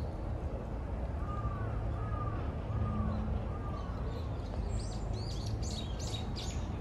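Birds calling: four short whistled notes in a row, then a quick run of higher chirps near the end, over a steady low hum of the surrounding city.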